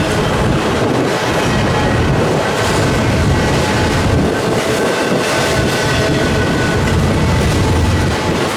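Freight train rolling past, a steady loud rumble of cars on the rails with faint thin squealing tones from the wheels.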